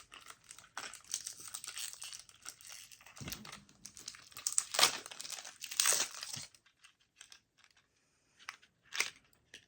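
Snack wrapper being handled and torn open by hand, a crinkling, crackling sound that stops about two thirds of the way in, followed by a couple of faint clicks.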